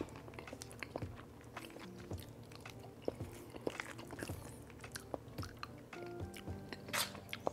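A person chewing a mouthful of MRE vegetarian crumble, with small clicks of a spoon scraping in the foil pouch and a sharper click near the end. Quiet lo-fi background music plays underneath.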